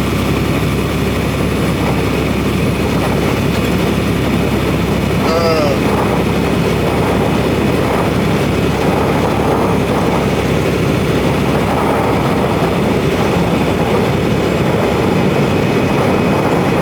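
Steady in-cab drone of a semi truck on the road: diesel engine and road noise.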